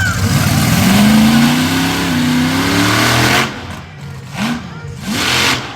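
A vehicle engine revs, its pitch climbing and wavering for about three seconds before falling away. Two short bursts of hissing noise follow near the end.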